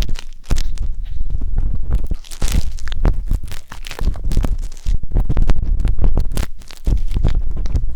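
Wooden skewer scraping and rubbing inside the silicone ear of a 3Dio binaural microphone, heard close up as dense, irregular scratching and crackling with a heavy low rumble from the contact.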